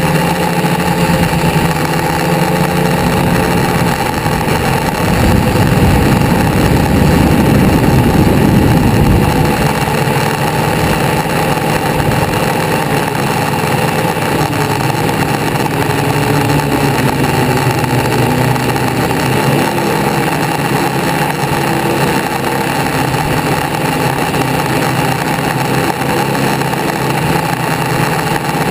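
Hot rod engines running at a loud, steady idle. About five seconds in, the sound swells for a few seconds, as one engine is revved or drives past, then settles back to the idle.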